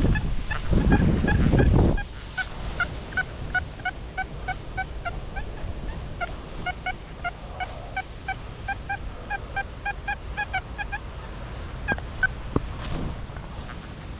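A flock of geese honking, a rapid run of short honks of slightly varying pitch from several birds. Wind rumbles on the microphone underneath and is heavy for the first two seconds.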